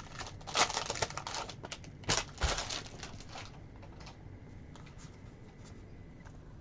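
Trading cards being flipped through and handled by hand, a quick run of clicks and rustles that dies down about three and a half seconds in, leaving only a few faint ticks.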